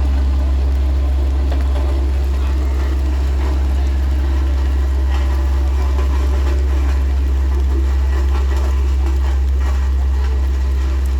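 An engine running steadily at idle: a constant low drone with no revving, and some faint clatter above it.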